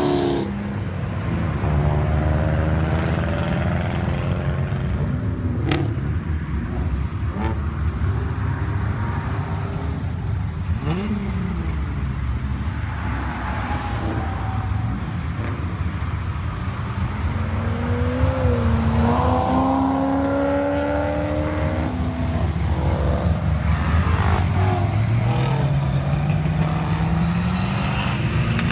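Car engines running at a steady low rumble, with revs rising and falling several times; near the end one engine's pitch climbs steadily as it accelerates.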